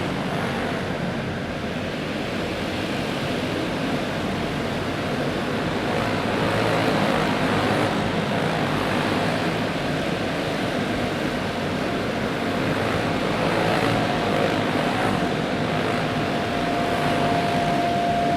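A field of dirt-track racing karts running flat out together: their single-cylinder clone engines make a dense, steady din at high revs. Near the end, one engine's steady high note stands out above the pack.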